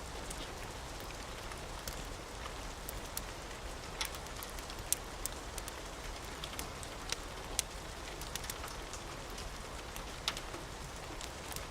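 Steady rain hiss with scattered sharp crackles and pops from a wood fire, a few of them louder than the rest.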